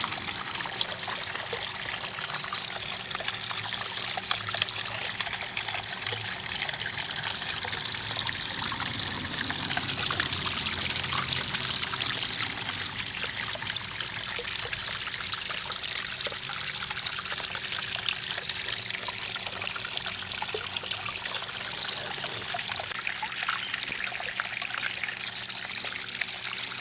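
Small garden-pond waterfall trickling and splashing steadily into the pond.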